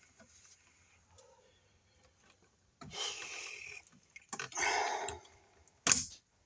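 Handling noise of electrical wires being gathered in a wall box: two rustling, scraping stretches followed by a couple of sharp clicks near the end.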